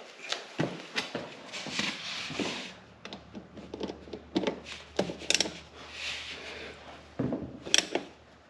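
Workshop handling noises: irregular clicks, knocks and rubbing as tools and parts are picked up and moved around, with a few sharper knocks near the middle and about three quarters of the way through.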